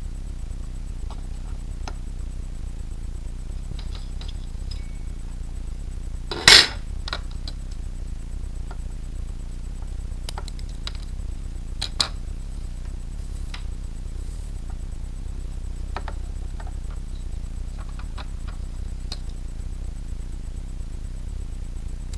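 Scattered clicks and clinks of small hard parts being handled, with one loud clack about six and a half seconds in and a sharper click near the middle, over a steady low hum.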